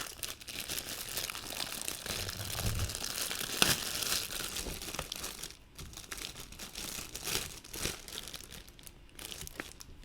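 Plastic packaging crinkling and rustling as it is handled, with a sharp click a little under four seconds in; the crinkling thins out into scattered small crackles and ticks in the second half.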